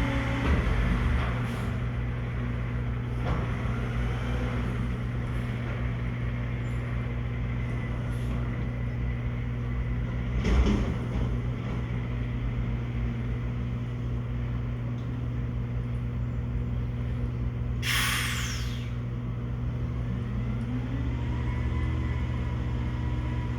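Garbage truck engine running steadily, with a knock about ten seconds in, a short sharp air-brake hiss past the middle, and a rising whine near the end.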